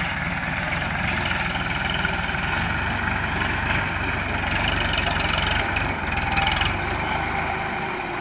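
Sonalika DI 745 tractor's diesel engine running steadily.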